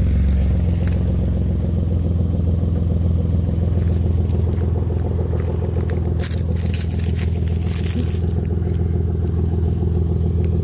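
An engine or motor running steadily at a constant pitch. Brief rustling and scraping is heard about six to eight seconds in.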